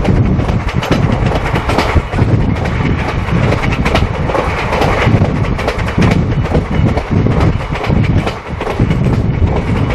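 Passenger train coach running along the track, heard from its open doorway: a steady loud rumble and rush with many sharp clattering knocks from the wheels and running gear.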